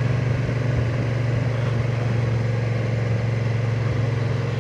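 Honda NT1100's parallel-twin engine running steadily at a constant pitch as the motorcycle rides along, heard from on the bike with a hiss of wind and road noise.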